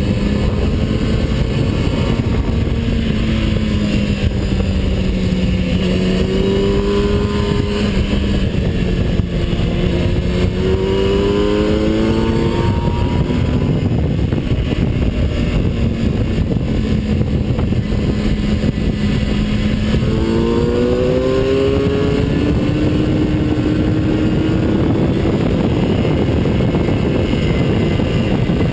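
Vehicle engine at speed on a race track, heard from an onboard camera under heavy wind and road rumble. Its pitch sags and climbs again a few times as it lifts off and accelerates, then climbs steadily through the last third.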